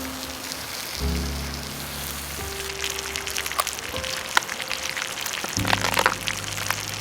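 Background music with slow bass notes, over a wood campfire crackling and popping in irregular sharp snaps that grow busier partway through.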